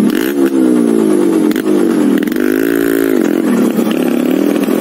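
Motorcycle engines running at low speed on a rough dirt trail, the revs rising and falling several times as the throttle is worked.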